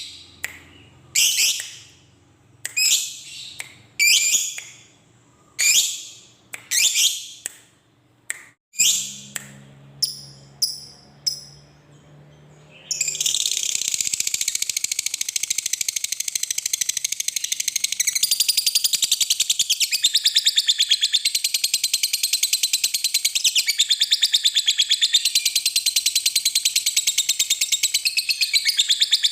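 Lovebird giving a string of short shrill calls, then about 13 seconds in breaking into a continuous fast chattering trill: the long 'ngekek' song that fanciers prize.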